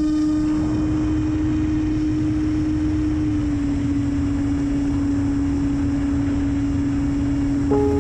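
Electric brushless motor and propeller of an RC trainer airplane running at steady throttle: an even whine with a noisy low rumble, dipping slightly in pitch about three and a half seconds in.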